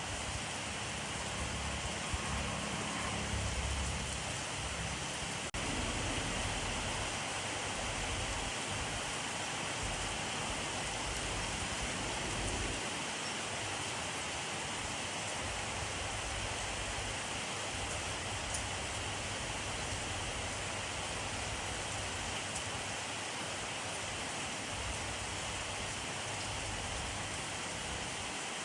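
Steady rainfall, an even hiss with no pauses, with a brief low rumble swelling a few seconds in.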